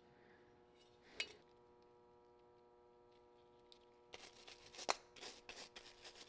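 Faint clinks and scrapes of small metal lantern parts being handled and worked, a single click about a second in, then a quick run of light clicks from about four seconds in, over a faint steady hum.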